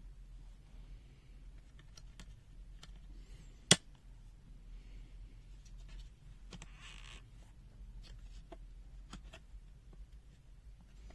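Small clicks and scraping from handling the plastic case and circuit boards of a multimeter being taken apart, with one sharp click a little under four seconds in. A low hum runs underneath.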